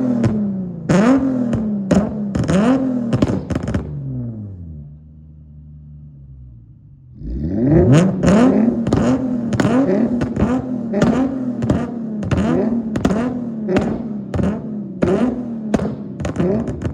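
Nissan Z V6 engine with an aftermarket exhaust, revved in quick blips, each one rising sharply and falling back. It settles to a steady idle for a couple of seconds about five seconds in, then blips rapidly again, roughly one to two revs a second, easing off near the end.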